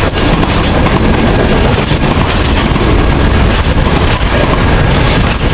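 Freight train of auto rack cars rolling past at close range: a loud, steady rumble of steel wheels on the rails, with short high flashes of wheel noise every second or so.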